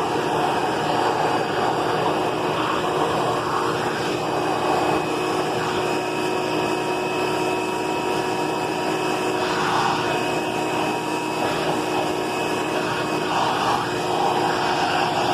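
Vacuum cleaner running steadily: a continuous rush of air with a steady motor whine.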